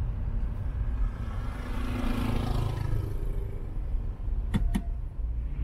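Steady low rumble of a car in slow city traffic heard from inside the cabin. A passing vehicle swells up and fades about two seconds in, and two sharp clicks come close together about four and a half seconds in.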